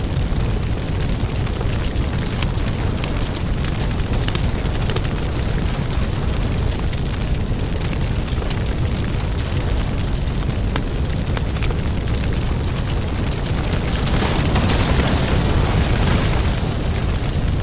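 Wood fire burning in a fireplace: a steady low rumble of flames with frequent small crackles and pops, swelling slightly about three-quarters of the way through.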